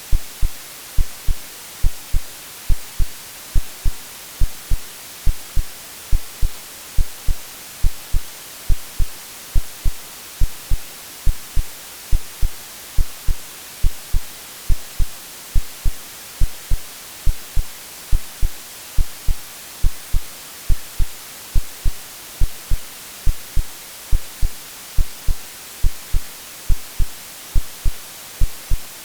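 Artificially generated white noise, a steady hiss, mixed with a heartbeat sound: low, deep thumps in lub-dub pairs repeating about once a second. It is made to resemble the sounds a baby hears in the womb.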